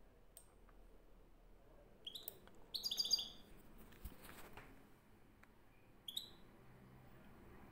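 Small birds chirping faintly in short runs of quick, high notes: about two seconds in, again around three seconds, and once more about six seconds in.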